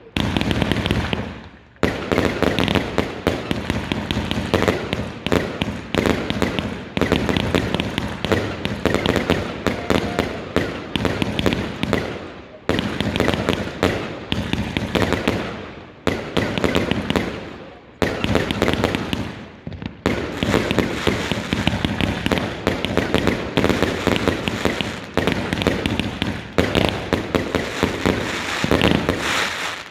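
Fireworks going off continuously: dense volleys of rapid crackling bangs, each lasting a couple of seconds and fading before the next volley starts.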